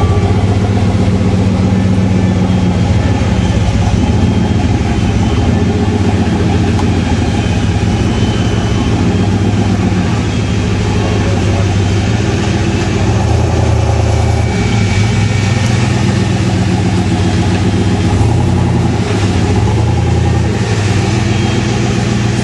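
Car engine running steadily, idling with some small changes in engine speed.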